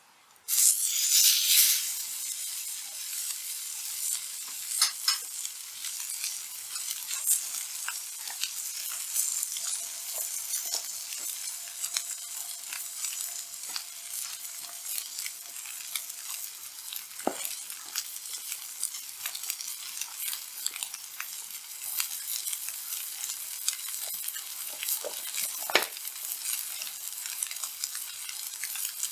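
Kuroge Wagyu steak frying on a hot, seasoned 4.5 mm black-skin iron griddle plate, a high steady sizzle with scattered sharp pops. The sizzle starts suddenly and is loudest for the first second or so.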